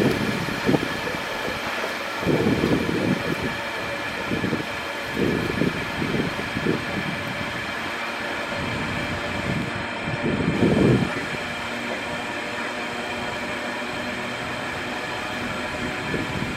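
Grain wagons of a freight train rolling past through the crossover, with irregular low clatter and rumble from the wheels and a steady set of high ringing tones above it.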